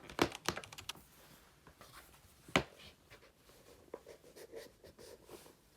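Typing on a computer keyboard: a quick run of keystrokes in the first second, one sharp louder key press about two and a half seconds in, then lighter, scattered taps later on.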